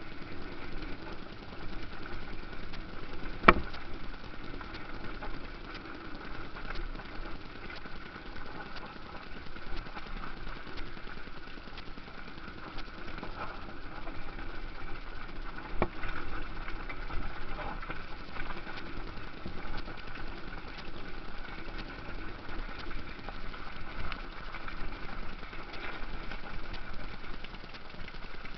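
Motocross motorcycle engines running steadily. A single sharp knock comes about three and a half seconds in, and a fainter one later.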